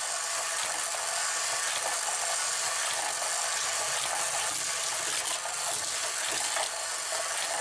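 Battery-powered motor of a Hot Wheels Power Tower wall track set running with a steady whir, with die-cast toy cars clicking and rattling over the plastic track.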